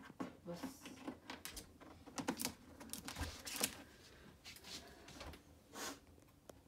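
Faint, irregular small clicks and taps, several in quick succession, with a couple of brief soft rustling bursts.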